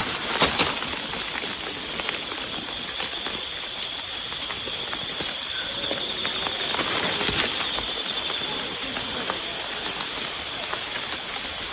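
Steady outdoor hiss with a short high-pitched chirp repeating about once a second.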